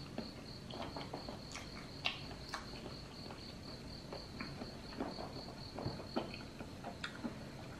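Quiet closed-mouth chewing of rubbery sea cucumber: soft wet mouth clicks and smacks at irregular moments. Under it, a faint high-pitched tone pulses steadily about five times a second.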